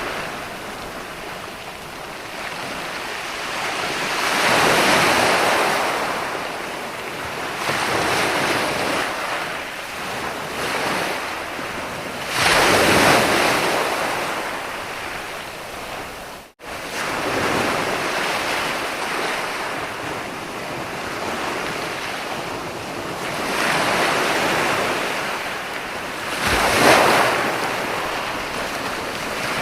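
Ocean surf, waves breaking and washing in, swelling and fading every few seconds. The sound cuts out for a split second about halfway through.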